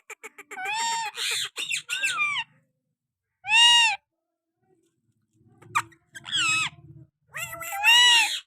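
Pet parrot giving short, high, arching calls in several bursts with pauses between them, mimicking the call of a quail.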